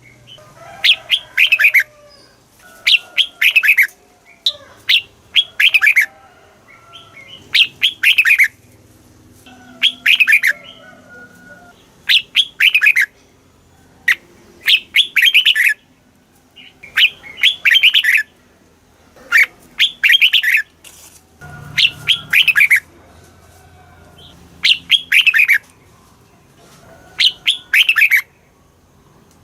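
Red-whiskered bulbul singing, repeating the same short phrase of quick falling notes about every two seconds.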